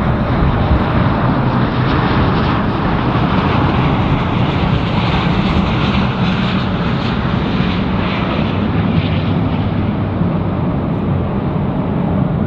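Arriving airliner's engines passing close by on landing approach: a loud, steady rumble and hiss that grows brighter in the middle and thins out toward the end.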